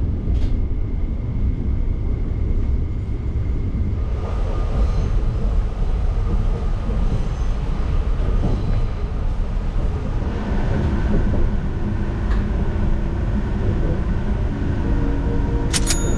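Saphir Odoriko (E261 series electric train) running, heard inside the carriage as a steady low rumble. Faint steady tones join in about two-thirds of the way through, and there are a couple of sharp clicks near the end.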